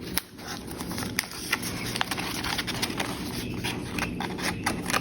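Paper rustling, with light irregular taps and clicks, as paper pieces and tags are slid in and out of an envelope pocket in a junk journal.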